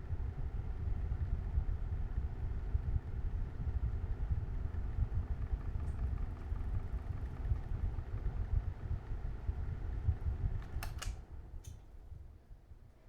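Hanimex HDF 0020 20 cm box fan running steadily: a low rumble of moving air with a faint motor hum. Near the end a few clicks come and the sound dies away as the fan is switched off and winds down.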